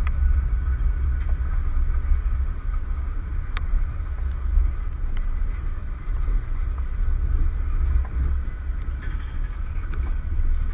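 Freight cars of a long CSX train rolling slowly past, a steady low rumble with a faint thin whine and a few sharp clicks from the wheels and couplers. The train is crawling upgrade on wet, leaf-covered rails.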